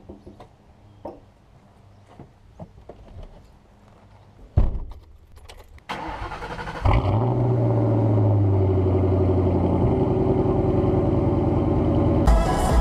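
A car engine starting about seven seconds in and settling into a steady idle. A single loud thump comes a couple of seconds before it, after a few faint clicks.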